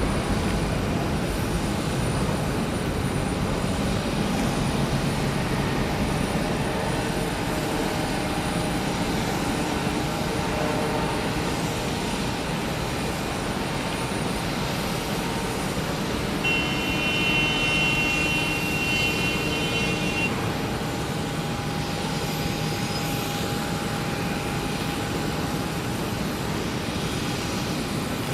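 Jet airliner engines running steadily, a continuous rushing noise with faint steady whines. A brief higher whine comes in about two thirds of the way through and fades a few seconds later.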